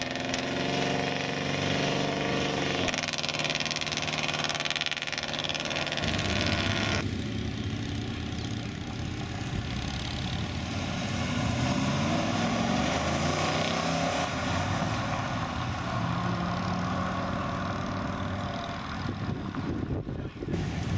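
Several classic cars driving past one after another, each engine running and revving as it pulls away. The engine sound changes abruptly a few times as one car gives way to the next, with rising revs in the middle.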